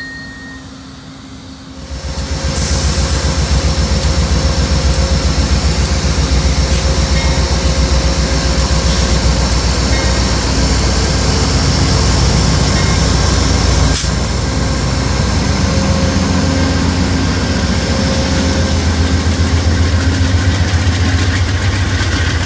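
Diesel locomotive of an Amtrak passenger train running close by: a loud, steady, low pulsing engine sound that starts about two seconds in. There is one sharp click about two-thirds of the way through.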